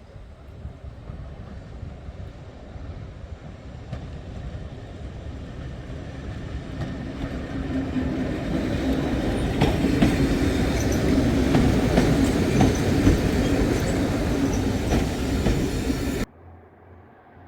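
A train drawing closer and running past, growing louder over about ten seconds, with wheels clicking over rail joints and some wheel squeal. The sound cuts off suddenly near the end.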